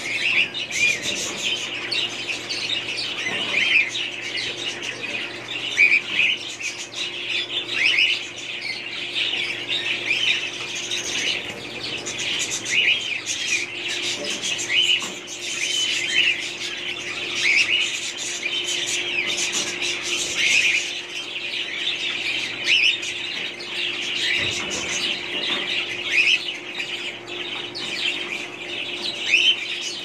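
Caged birds chirping: many short, high chirps overlapping without a break.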